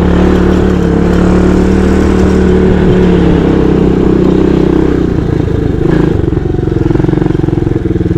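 Small mini bike engine running at a steady pace, easing off about five seconds in and then holding steady again.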